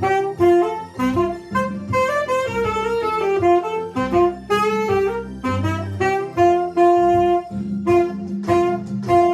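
Saxophone playing a lively melody of short, separate notes with one longer held note near the end, over a lower accompaniment that sounds like a backing track with bass.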